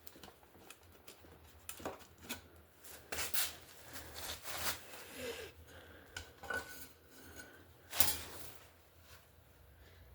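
Light metal clinks, scrapes and knocks of hand work on a motorcycle exhaust silencer as its broken internal tube is worked out of the end, with a louder clank about eight seconds in.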